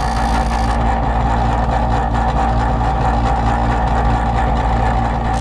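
Electric chain grinder running steadily with a constant whine, grinding down the rakers (depth gauges) on a new chainsaw chain so that it takes a bigger bite.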